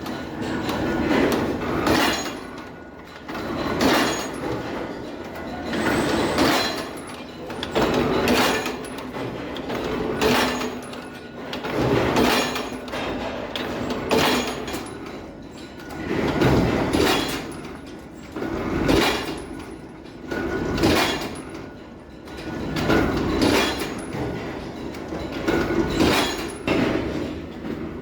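Bolt-making factory machinery working in a steady repeating cycle, with a clanking strike roughly every two seconds over a continuous mechanical din.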